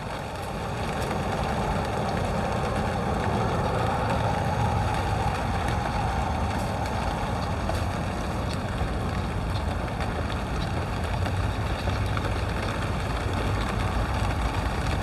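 Steady rain falling: an even hiss with a few sharp taps of drops, over a low rumble.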